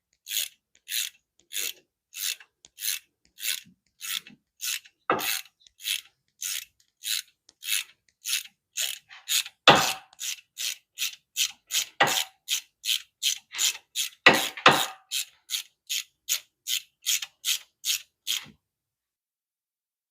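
Hand ratchet worked in quick short strokes, each back-stroke a rasping burst of pawl clicks, nearly three a second, with a few heavier knocks. The strokes stop near the end.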